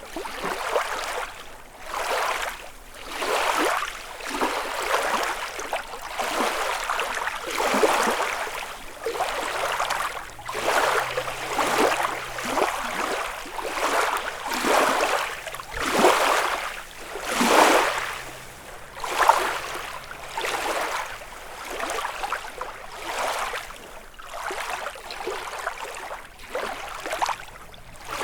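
Small lake waves lapping and washing onto the shore of Lake Kussharo, one wavelet every second or two in an uneven rhythm.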